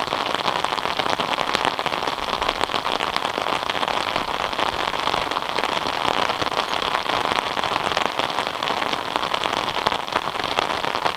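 Steady rain falling, a dense spray of individual drop hits over an even wash of noise.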